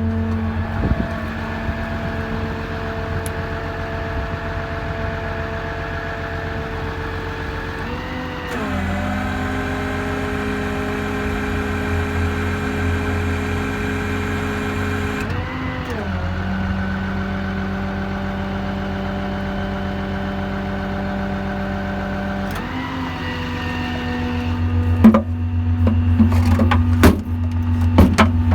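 A 6.7 Cummins diesel in a Dodge Ram 5500 service truck running while the auto crane is worked from its handheld controller. The engine note shifts up or down three times, about eight, sixteen and twenty-three seconds in. Several sharp knocks come near the end.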